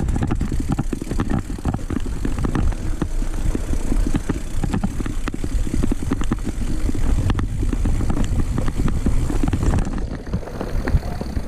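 Mountain bike rolling over a rough forest trail: heavy tyre rumble with many small rattling knocks from the bike.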